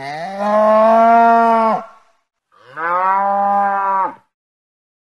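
Cow mooing twice: two long moos, the first rising in pitch and then held, the second starting about two and a half seconds in.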